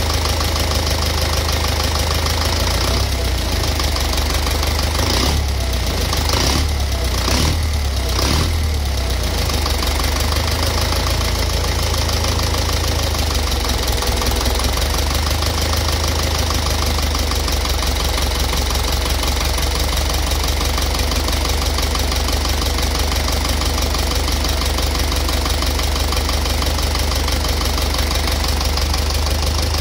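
Engine idling with a steady, rapid knock from inside it; the sound wavers briefly about five to nine seconds in, then settles.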